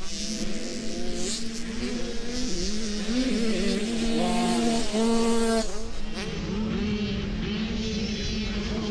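Several motocross dirt bikes running on the track together, their engines revving up and down and shifting at different pitches. One bike is loudest from about four to five and a half seconds in, as it revs hard close by.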